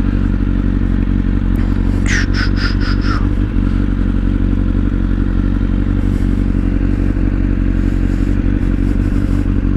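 An engine running steadily, with a low even drone that cuts off suddenly near the end. About two seconds in, five quick high chirps sound in a row.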